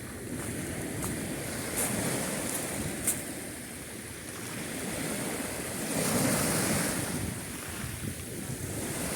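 Sea waves washing onto the shore, with one wave surging loudest about six seconds in, and wind buffeting the microphone.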